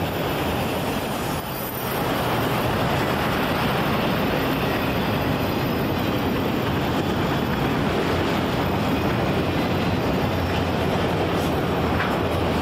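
Train rolling past close by: a steady rush of rail cars' wheels running over the rails.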